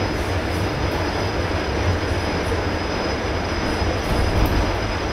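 ED4M suburban electric multiple unit running at speed, heard from inside the passenger car: a steady low rumble of wheels on rail under an even rushing noise, with a thin steady high-pitched tone.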